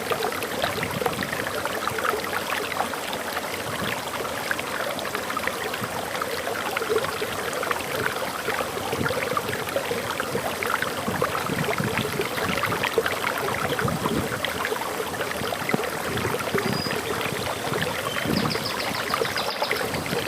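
Waterfall in a forest: water splashing and rushing steadily. A bird chirps a few times, high-pitched, near the end.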